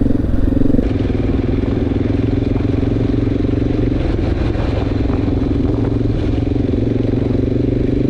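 Honda XR650L's air-cooled single-cylinder four-stroke engine running at a steady pace while riding on a gravel road. It is a little louder for the first second and then holds even.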